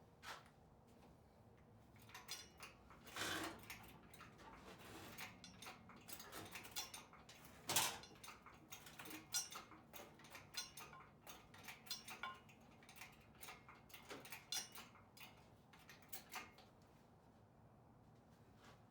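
Scattered metallic clinks, clicks and knocks of hand tools and parts being handled during work on a truck's engine bay, with a short scrape about three seconds in and one louder knock about eight seconds in.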